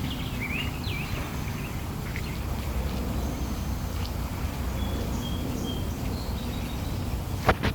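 Birds chirping in a quick run of rising and falling notes in the first second, then a few faint short whistles, over a steady low outdoor rumble. Two sharp clicks close together near the end.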